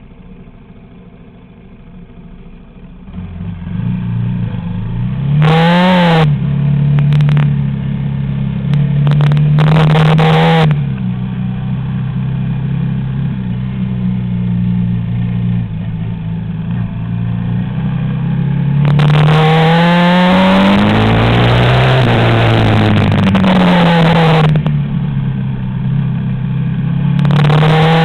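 Yamaha Raptor quad bike engine idling, then pulling away about three seconds in and accelerating hard along a gravel track, its pitch rising and falling again and again with throttle and gear changes. For several seconds past the middle, a loud rushing noise joins the engine.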